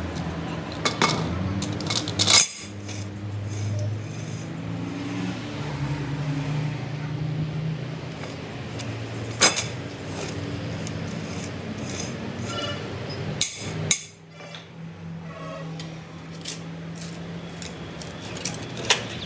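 Metal parts clanking and knocking now and then, about half a dozen sharp strikes, over a steady low hum from running shop machinery.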